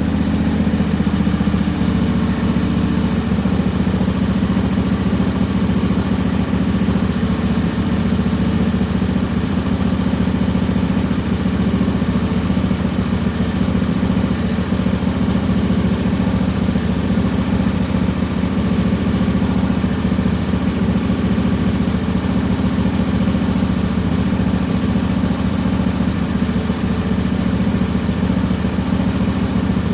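Lawn tractor's engine idling steadily after a warm restart.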